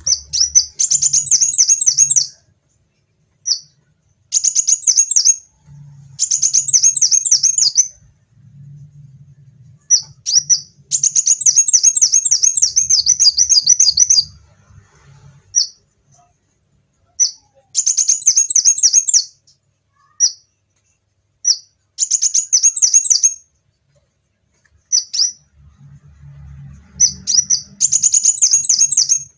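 A kolibri wulung sunbird singing loudly. Fast, very high, twittering phrases of a second or two alternate with single sharp chirps and short pauses.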